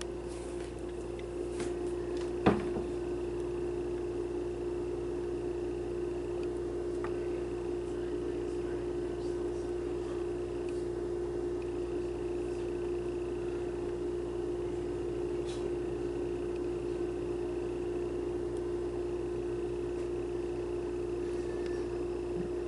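A steady hum at one constant pitch, with a single sharp click about two and a half seconds in.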